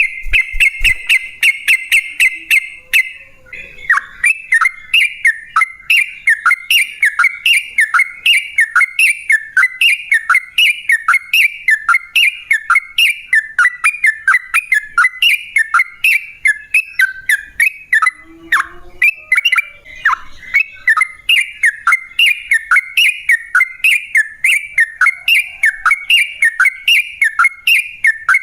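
Yellow-vented bulbul (trucukan) calling. It opens with a buzzy rattling trill for about three seconds, then gives a long run of short chattering notes, about two to three a second, each falling in pitch.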